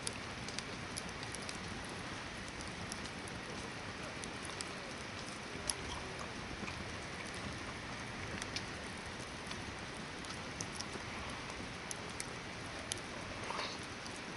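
Hardwood campfire burning: a steady hiss with scattered sharp crackles and pops.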